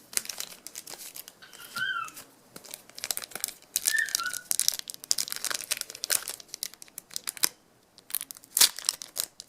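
Trading-card pack wrappers crinkling and tearing as packs are opened and the cards are handled, in a dense run of irregular crackles with a brief lull near the end.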